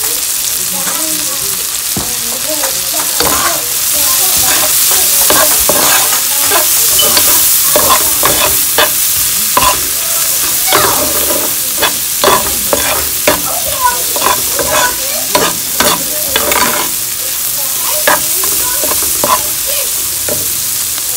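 Shrimp, onion, garlic and scallions sizzling in hot oil in a pot, with a utensil scraping and clicking against the pot many times as they are stirred.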